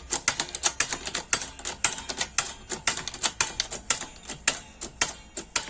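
Rapid, irregular metallic clicking, several clicks a second, as a new wheel hub bearing is pressed into a Chevrolet Lanos steering knuckle on a shop press; it presses in easily.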